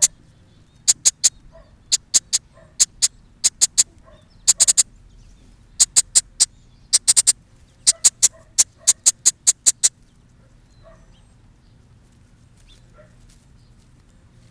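Baby blackbird being hand-fed, giving short, high chirps in quick clusters of several a second. The calls stop about ten seconds in.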